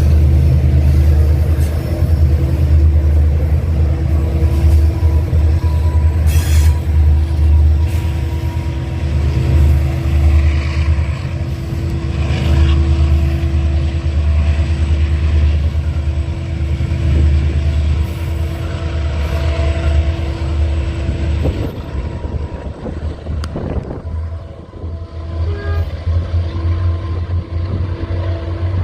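Freight train passing behind diesel-electric locomotives: a steady, heavy low engine rumble with a held hum tone over it. About three quarters of the way through, the rumble drops for a few seconds, then comes back as more locomotive power goes by.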